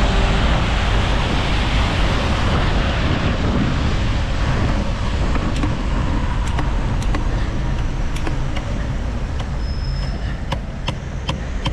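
Steady rushing city traffic and road noise on a rainy street, heard from a moving bicycle. Scattered sharp clicks come in during the second half.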